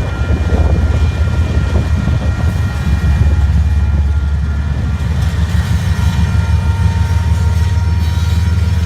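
Freight train's GE Evolution-series diesel locomotives running with a loud, steady low rumble, with a few faint steady high tones above it.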